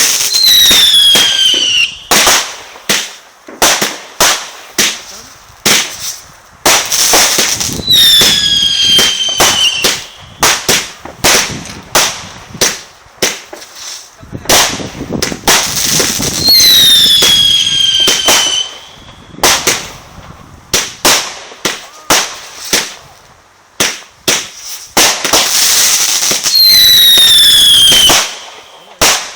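Fireworks going off: rapid sharp bangs and crackles, with a loud hissing burst about every nine seconds, each followed by several falling whistles.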